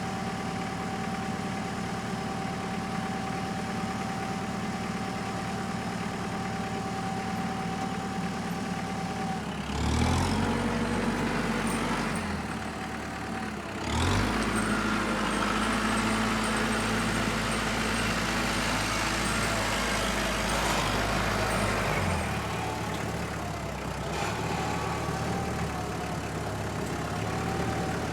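Engine idling steadily, then revving up twice: briefly about ten seconds in, then for about eight seconds from fourteen seconds, before settling back toward idle.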